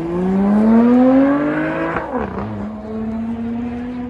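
A vehicle engine accelerating hard, its pitch rising for about two seconds, then dropping sharply at an upshift and climbing again more slowly.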